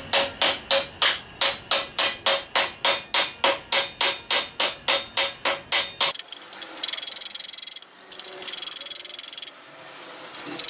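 Hammer striking a steel exhaust pipe of a Ford Model T header in quick, even blows, about four a second, each with a short metallic ring: the pipe being banged out from the inside so it sits tight against the mating piece. The hammering stops about six seconds in, followed by a steady high hiss in stretches of a second or so.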